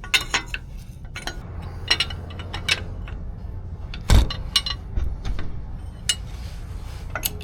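Metal hand tools clinking and clicking irregularly while tightening a ball joint nut on a steering knuckle, with a heavier knock about four seconds in.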